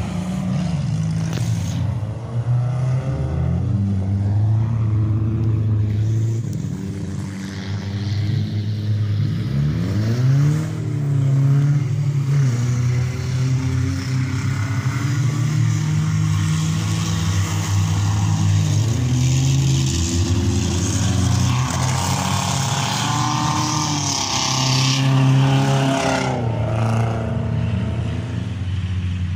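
Several demolition derby car engines running and revving on the track, their pitch rising and falling through repeated throttle blips and accelerations.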